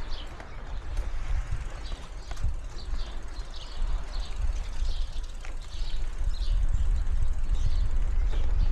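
Birds chirping over and over above the low rumble of a bicycle ride: wind on the microphone and tyres rolling on the street. The rumble grows louder near the end.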